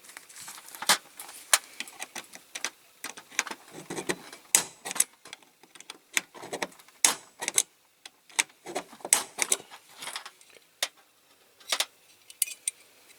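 Small metal hand tools clicking and scraping against a diecast zinc model in irregular short strokes, picking at the remains of a rivet stuck in the casting.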